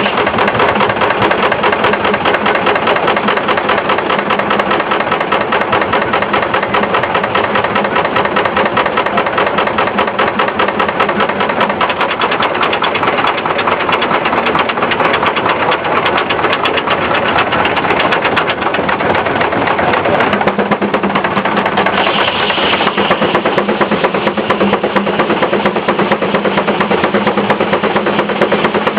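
Case steam traction engine running steadily, belted to a sawmill, with a fast even beat, and a brief higher-pitched sound about two-thirds of the way through.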